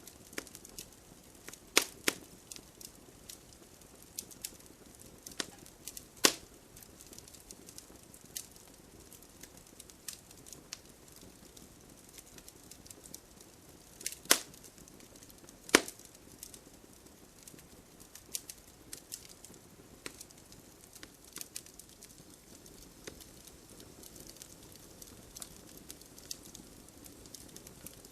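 Wood fire in a fireplace crackling: scattered sharp snaps and pops over a faint steady hiss, with a few louder pops about two seconds in, about six seconds in, and twice in the middle.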